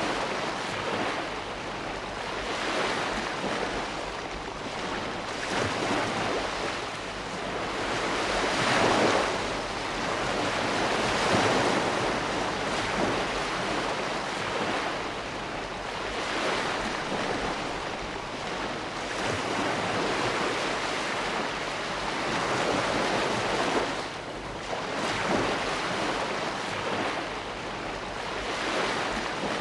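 Ocean waves breaking and washing up on shore, a continuous surf with swells that rise and fall every few seconds.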